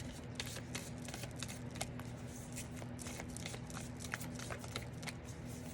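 A deck of oracle cards being shuffled by hand: a continuous run of soft clicks and rustles of card against card.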